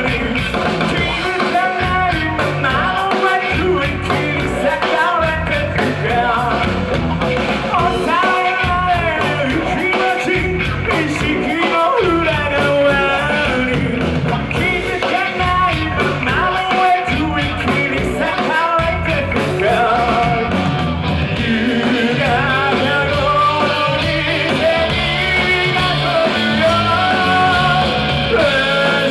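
Rock band playing live with a sung lead vocal, guitars and drums, loud and continuous.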